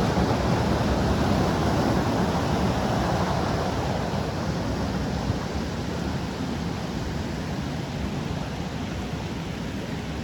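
Waterfall's rushing water: a steady, even noise that eases off a little as it goes on.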